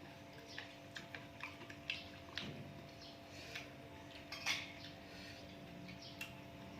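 Eating sounds: a dozen or so light, scattered clicks and taps of cutlery against dishes while sea grapes are eaten, over a faint steady hum.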